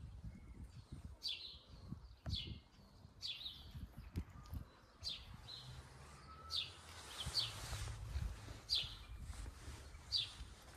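A small bird chirping repeatedly, short high calls that fall in pitch, about one a second, over a low rumble.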